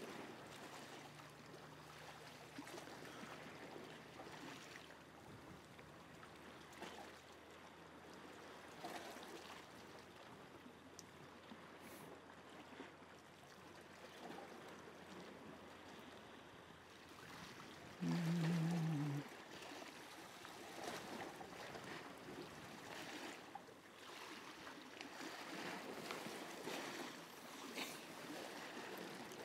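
Seawater washing and lapping against shore rocks, a steady low wash. About two-thirds of the way in, a brief low humming tone lasts just over a second and is louder than the water.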